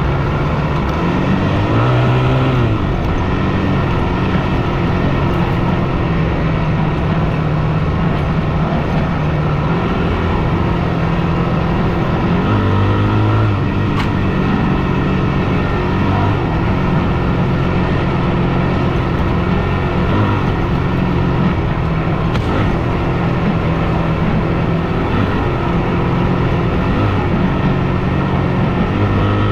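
Yamaha WR250F single-cylinder four-stroke dirt bike engine running under way, its pitch rising and falling with throttle and gear changes.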